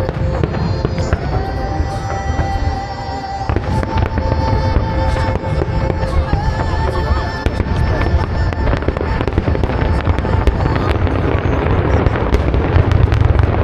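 Fireworks bursting and crackling in quick succession with deep booms, over music with long held notes playing alongside the show.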